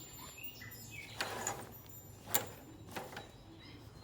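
Faint handling sounds: three short clicks or rattles about a second apart, with a few faint short chirps in the first second.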